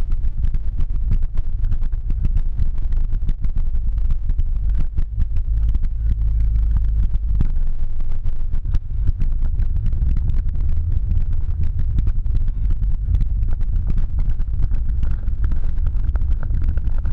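Car interior recorded through a GoPro Hero 3 Black's built-in microphone: a heavy, steady low booming rumble overlaid with constant crackling static. This is the distortion the owner attributes to the camera's microphone being unable to cope with the in-car low-frequency noise.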